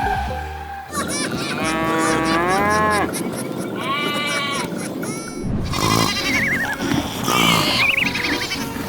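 A string of pitched animal-like calls, one after another, their pitch bending up and down, with quick warbling calls near the end.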